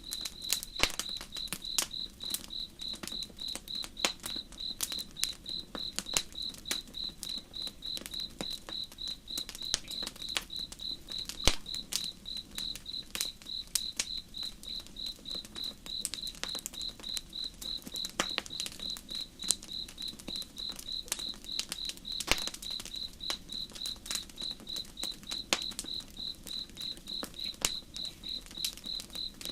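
Campfire crackling with scattered sharp pops, over a cricket chirping in a steady, even pulse at a high pitch.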